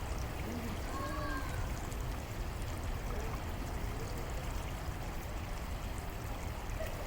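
Creek water running, a steady rushing sound.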